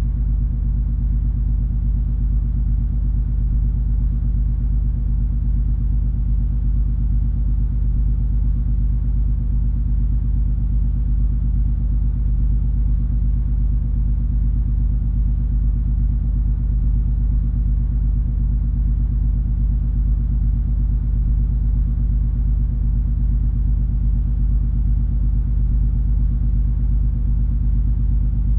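Steady low rumble and hum of the MS Color Magic cruise ferry's engines and machinery running at cruising speed, with an even drone and no change in pitch.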